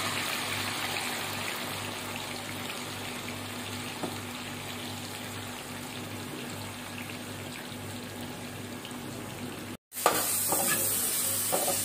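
Chips deep-frying in a pan of hot oil: a steady crackling sizzle that slowly fades. After a brief cut near the end, sliced tomato, carrot and onion sizzle louder in a frying pan, with a few sharp clicks.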